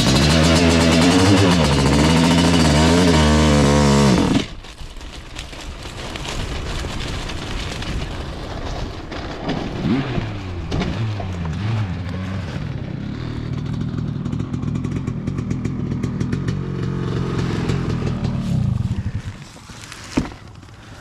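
Kawasaki KX500 two-stroke engine running loud, its pitch wavering up and down, then cutting off abruptly about four seconds in. A quieter engine then runs with a few rises in pitch and stops shortly before the end.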